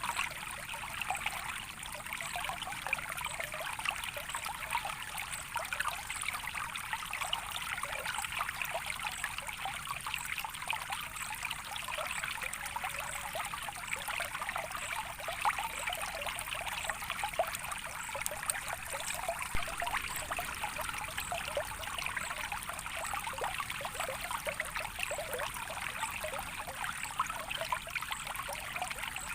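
A small stream trickling and burbling steadily over stones, with many small splashes and gurgles.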